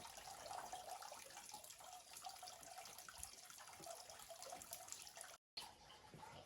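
Faint, steady water noise with a brief dropout to silence about five seconds in.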